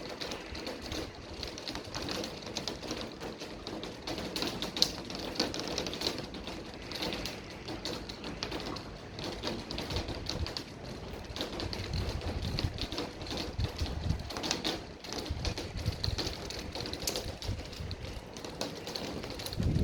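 Rain drops tapping irregularly on a hard surface, many sharp ticks over a steady patter, with a few stretches of low rumble.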